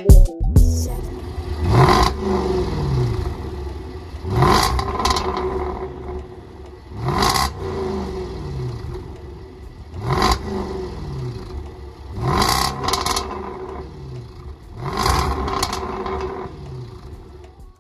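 Range Rover SVR's supercharged V8 through a Supersprint exhaust with non-resonated midpipes, revved sharply about six times, each rev dropping back to idle.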